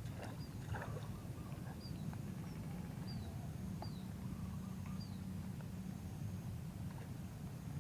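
Birds calling outdoors: short, high chirps that slide downward, repeated every second or so, over a steady low rumble.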